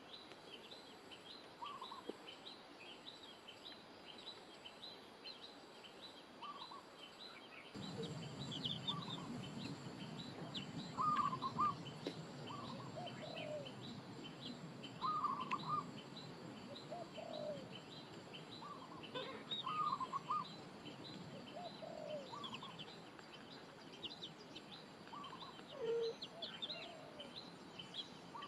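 Several birds chirping and calling: many short high chirps in quick succession, with lower clipped call notes every second or two. A low rushing noise joins about eight seconds in.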